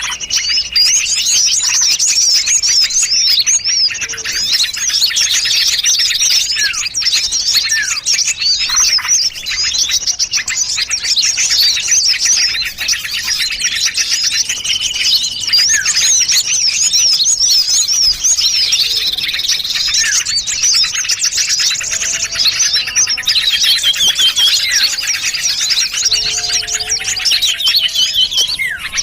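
Bird-lure recording of many small songbirds calling at once: a dense, unbroken tangle of high chirps, rapid trills and twittering calls, with a few lower whistled notes in the last third. It is a mixed call track made to draw small birds in.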